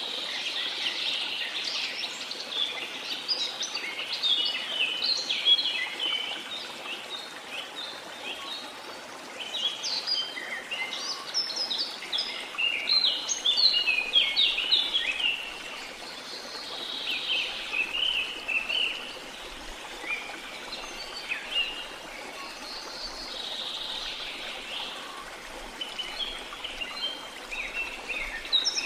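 Birds chirping and calling in quick clusters of short notes over the steady rush of a waterfall.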